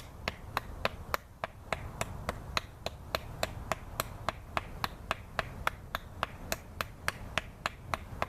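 A knife blade chopping into a wooden fireboard in quick, light, even strokes, about three to four a second, cutting the notch for a hand-drill fire towards the drilled seat.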